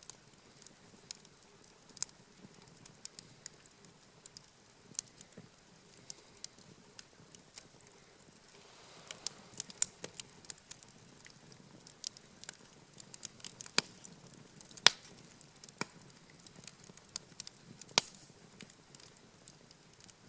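Wood campfire crackling, with irregular sharp pops and snaps of burning wood. There is a soft rush of flame about nine seconds in, and the loudest pop comes about fifteen seconds in.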